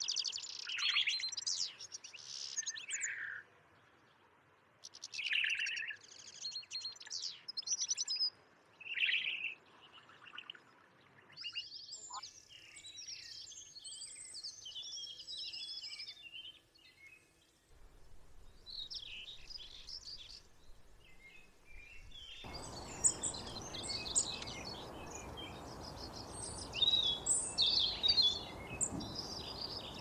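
Songbirds singing and chirping in short trilled phrases. Later on a steady background hiss comes in under denser, overlapping calls.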